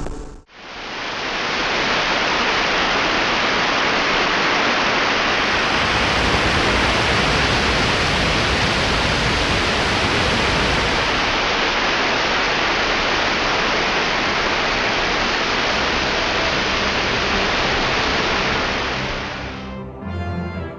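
A steady, loud rushing noise that starts abruptly after a cut and fades out near the end, where music comes in.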